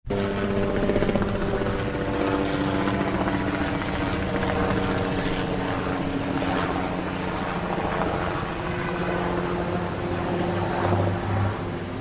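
A small motor running steadily with a whirring, buzzing hum whose pitch shifts in small steps. It starts abruptly.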